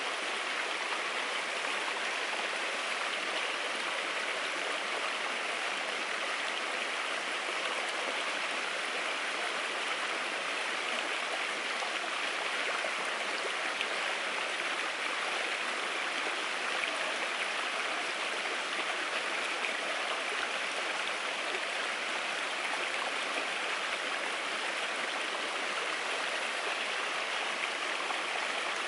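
A steady rushing noise like running water, even and unbroken, with no crackle standing out.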